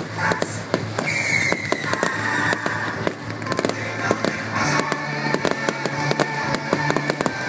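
Fireworks going off in quick succession, many sharp bangs and crackles throughout. Music plays underneath with sustained notes, one of which comes in about a second in and slowly falls.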